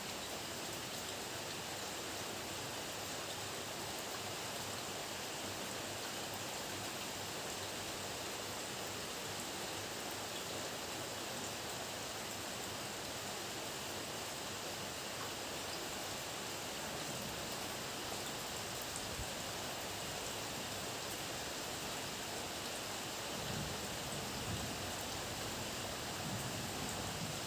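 Heavy rain falling as a steady, even hiss, with low rumbles of distant thunder swelling up twice in the second half.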